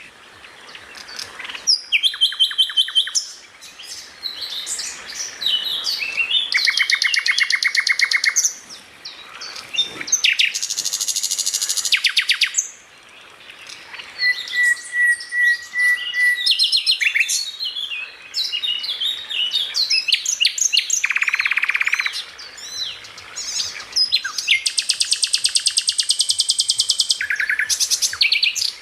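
Songbirds singing a continuous masteran-style medley: rapid machine-gun trills and chattering phrases that jump between pitches, with brief pauses, and a short steady whistle about halfway through.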